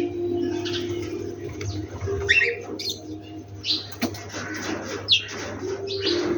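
Wild birds in a morning chorus: short, high chirps and calls come about every half second to second, over a steady lower tone and a faint low hum.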